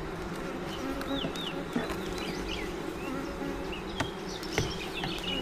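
Honey bees buzzing in a steady hum around an opened hive, with a few sharp knocks of frame handling.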